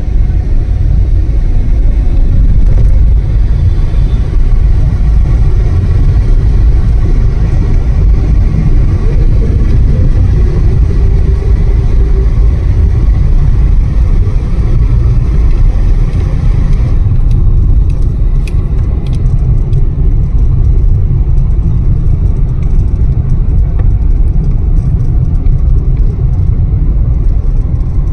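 Loud, steady low rumble with no pitch to it. About seventeen seconds in, the higher hiss above it drops away suddenly.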